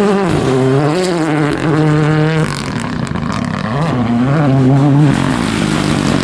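Race car engine revving hard, its pitch rising and falling with the throttle. About two and a half seconds in it drops sharply, as at a gear change or lift-off, then climbs again.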